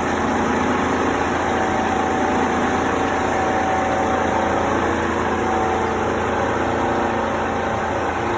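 A machine's engine running steadily at idle, with a low hum and a faint steady whine.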